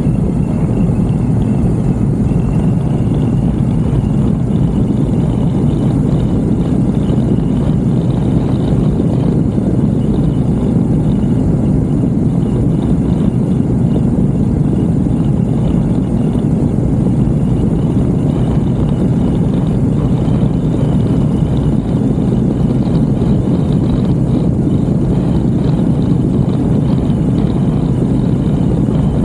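Moto Guzzi V7 Racer's 750 cc V-twin running steadily under way, with a constant low rumble.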